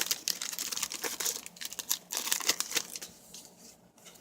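A trading-card pack's wrapper crinkling and tearing as it is ripped open, a dense run of crackles that thins to a few faint rustles near the end.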